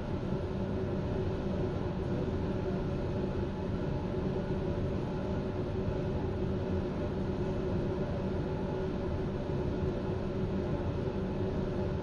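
Steady hum and rumble of a stopped electric intercity train, heard from its rear end, with no change in pitch or level.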